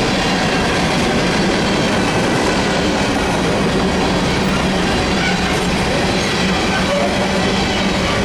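Freight train cars rolling past on the rails, a loud, steady rumble of wheels on track.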